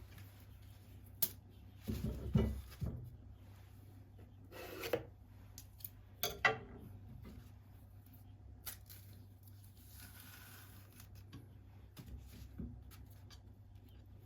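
Objects being handled: scattered light knocks, taps and rubbing, with the loudest thump about two seconds in, over a steady low hum.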